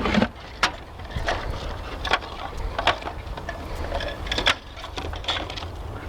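Scattered short clicks and knocks at irregular intervals, a sharper knock near the start and another about two-thirds of the way through, over a steady low wind rumble on the microphone.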